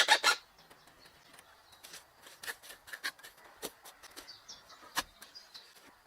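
The last few rasping strokes of a hand tool working wood, stopping about half a second in. Scattered light clicks and knocks follow, with faint bird chirps.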